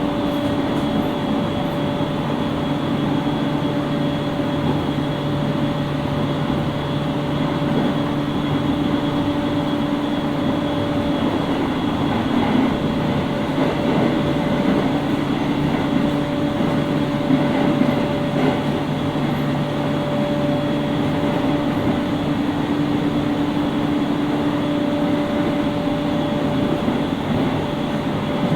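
Inside a JR East 701 series 5500-subseries electric train running at speed: a steady rumble of wheels on rail with a steady hum of the traction equipment at several pitches. The hum fades for a few seconds near the middle and then comes back.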